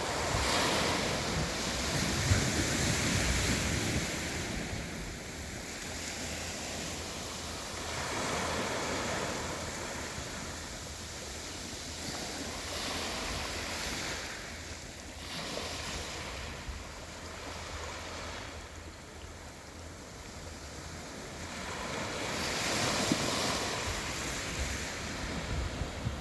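Sea waves washing onto a rocky karst shore, swelling and falling every few seconds, with wind buffeting the microphone.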